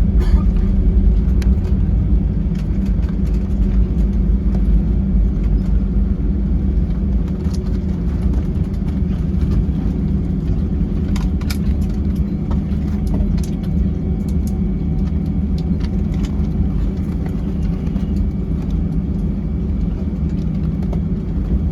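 Airbus A320 heard from inside the cabin during its landing: a loud, steady low rumble of engines and airflow that slowly eases, with a few light rattles about halfway through.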